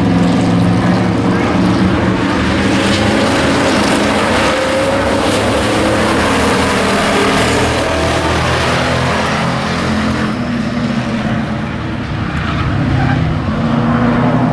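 Engines of several stock-class race trucks running on a speedway oval, a loud steady drone with the engine pitch rising near the end.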